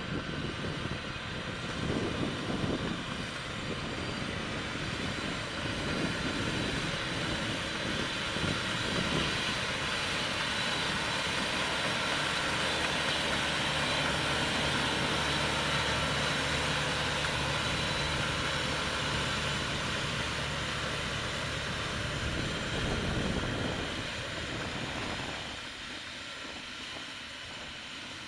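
Crawler tractor engine running with a steady drone. It builds up to its loudest in the middle and falls off about three seconds before the end.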